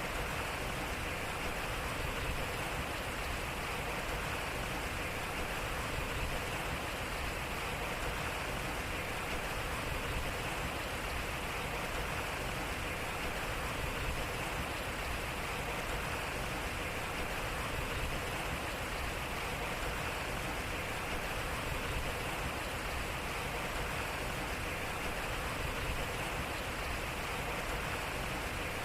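Water flowing steadily through a turning water wheel, an even, unbroken rush.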